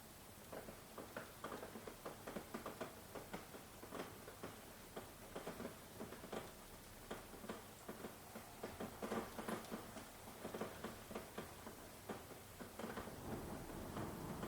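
Rain dripping: many irregular drops tapping on a hard surface, several a second, over a faint steady hiss of rainfall.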